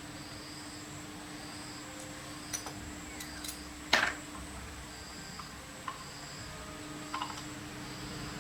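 A few sharp clicks and one louder knock about four seconds in, like tools handled on metal parts, over a steady hum. Faint insect chirping repeats about once a second.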